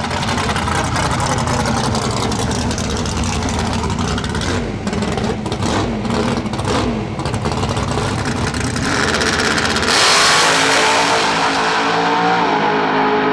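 Drag racing car's engine running hard at full throttle. There are several brief breaks in the sound around the middle, and about ten seconds in it changes abruptly to a louder, hissier sound with a steady whine.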